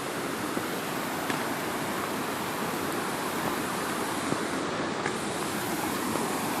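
Creek water rushing steadily, an even hiss with a few faint ticks.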